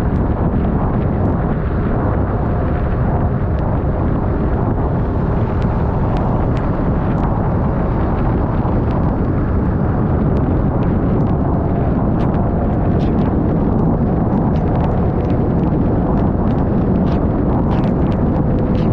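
Wind buffeting a helmet- or bike-mounted camera microphone while riding a Yamaha XMAX 300 scooter, a steady heavy rumble with the scooter's single-cylinder engine humming faintly beneath it. Scattered small ticks run through it throughout.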